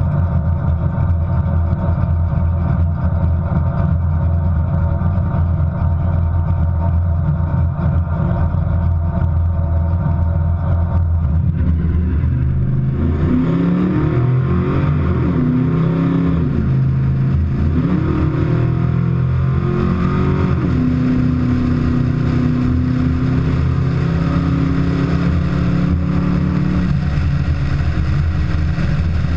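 Camaro V8 engines running steadily for about twelve seconds, then revving up and down and pulling through a sustained hard run, as at a drag-strip launch.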